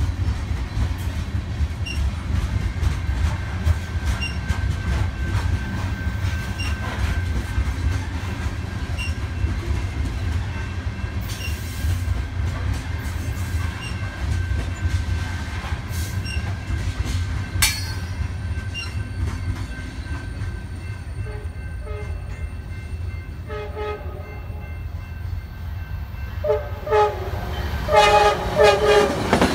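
Coal train's hopper cars rumbling past with faint regular wheel clicks. From about two-thirds of the way in, an approaching Amtrak passenger locomotive sounds its horn in several blasts, loudest near the end.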